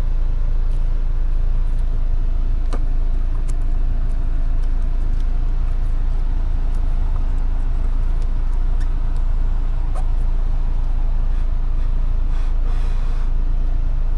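Car engine idling with a steady low rumble, with a few faint clicks about three seconds in and again near ten seconds.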